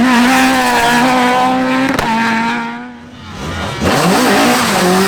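Rally car engine held at high revs at full throttle, fading away about three seconds in; then a rally car engine comes in again, revving up and easing off.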